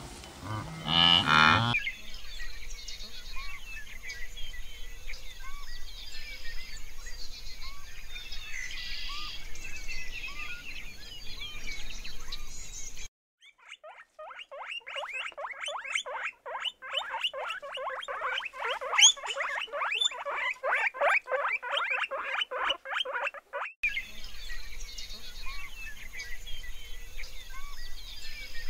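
A blue wildebeest gives a short nasal grunting call at the start. Faint chirping follows. Then, from about 13 seconds in, guinea pigs squeak in a fast, continuous run of short high squeaks for about ten seconds, which stops suddenly.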